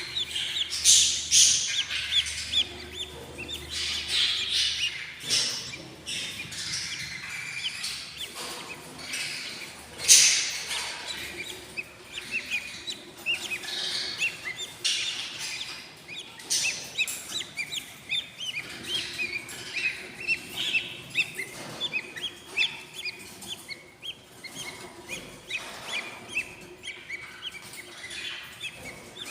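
Budgie chicks about eight days old chirping and begging in the nest box: a constant stream of rapid, thin chirps broken by louder raspy begging cries, the loudest about ten seconds in. The calls are the sign of hungry chicks.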